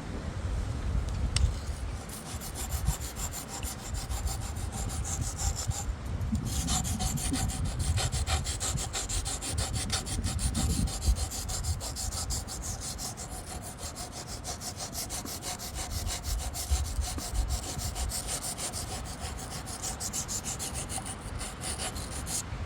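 Steel knife blade being stroked back and forth on a Wästikivi sharpening stone, a rapid run of grinding strokes that pauses briefly about six seconds in and then carries on.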